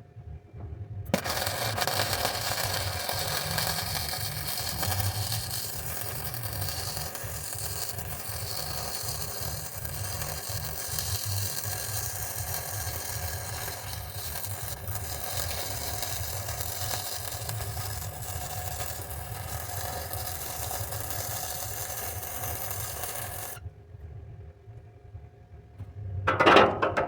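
Wire-feed (MIG) welder arc crackling steadily through one long continuous weld of about 22 seconds, starting and cutting off abruptly. A few sharp metal clanks follow near the end.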